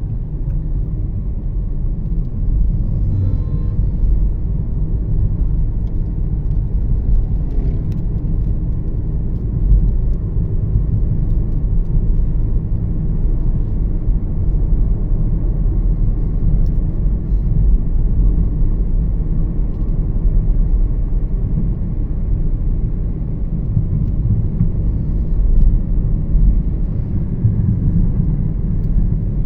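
Steady low road rumble of a moving car heard from inside the cabin, a Toyota Yaris 1.5 cruising on the highway, with tyre and engine noise holding an even level.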